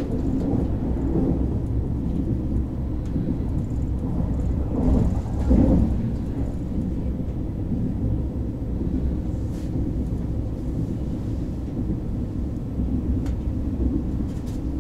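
KTX high-speed train running, heard from inside the passenger cabin: a steady low rumble that swells briefly about five seconds in.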